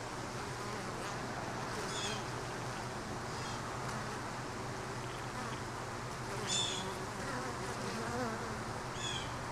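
Honey bees buzzing in a steady hum around an open hive, with a few short high chirps.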